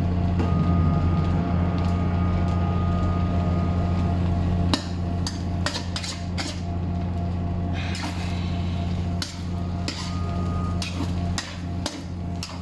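Metal spatula knocking and scraping against a wok while stir-frying, a dozen or so sharp clanks starting about five seconds in, over a steady low hum.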